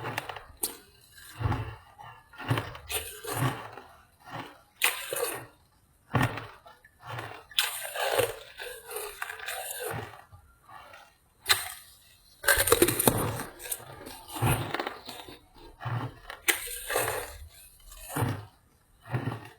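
Ice being bitten and chewed, a run of loud cracking crunches about once a second, with longer bouts of grinding chews in the middle.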